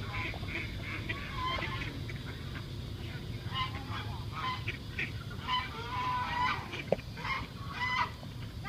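A flock of geese and ducks calling together, many short honks and quacks overlapping without pause. A single sharp click stands out about seven seconds in.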